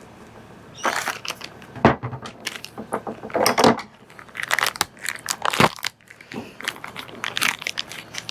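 Plastic packaging crinkling and rustling in short irregular bursts while being handled and opened, with a couple of sharp knocks, one about two seconds in.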